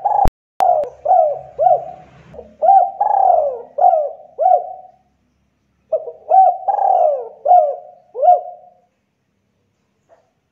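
Spotted dove (tekukur) cooing: a rhythmic series of coo notes, pausing briefly about five seconds in, then a second run of coos that stops about a second before the end.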